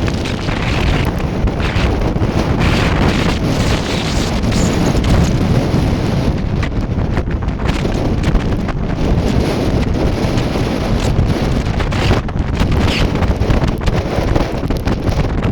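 Strong wind buffeting the microphone aboard a sailboat under way. It is a dense, steady rumble and hiss that goes on without a break.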